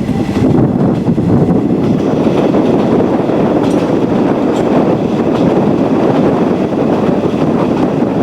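JNR passenger train running along the rails, heard from inside the car: a steady loud rumble of wheels and running gear.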